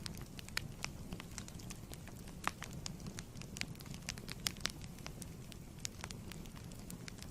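Fireplace burning: wood fire crackling and popping at irregular intervals over a steady low rumble of flame.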